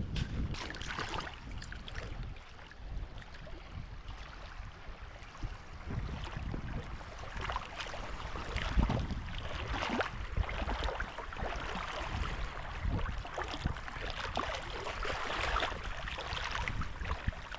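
Wind buffeting the microphone, with the rush of water underneath, rising and falling in gusts.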